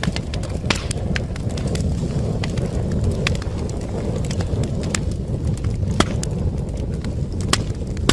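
Wood fire burning in a fireplace: a steady low rumble of flames with frequent sharp crackles and pops, a few louder pops standing out near the start, around six seconds in and near the end.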